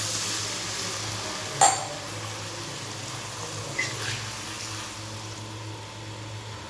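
Food sizzling in a hot pan, the hiss slowly dying down. A sharp clink of a utensil against the pan comes about one and a half seconds in, and a lighter tap near four seconds.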